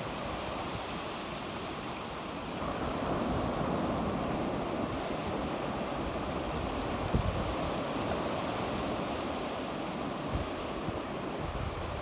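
Sea waves washing on the shore in a steady wash, swelling a little about three seconds in, with some wind buffeting the microphone.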